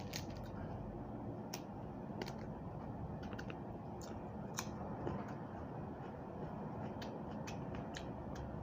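Eating and food-handling sounds: small sharp clicks and crackles at irregular intervals over a steady low background hum.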